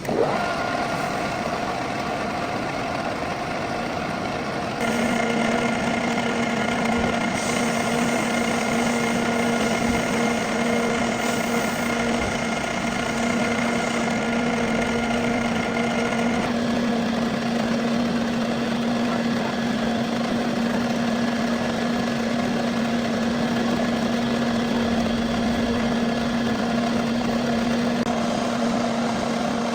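Metal lathe running steadily with a continuous whine, machining a metal pulley. It gets louder about five seconds in, when a low steady hum sets in, and a higher ringing tone sounds over it until about sixteen seconds.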